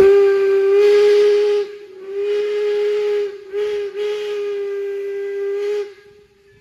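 Steam locomotive whistle blowing the grade-crossing signal: two long blasts, a short one and a final long one, a single steady tone with a hiss of steam over it.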